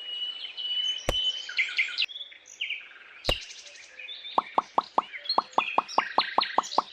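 Small birds chirping, with two sharp knocks. About four seconds in, a fast, even run of short plops starts, about five a second.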